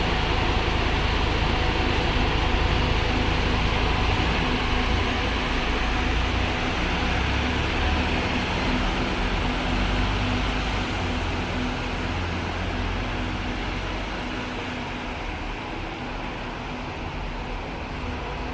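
Scania K310UD double-decker bus's diesel engine running steadily, a low rumble with a few steady hum tones, slowly growing quieter.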